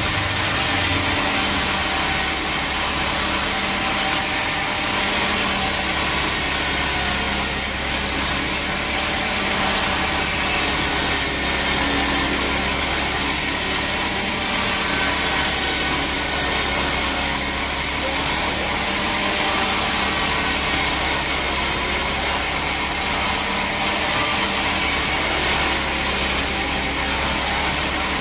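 Sawmill saw running and cutting through a log: a steady machine hum under continuous sawing noise.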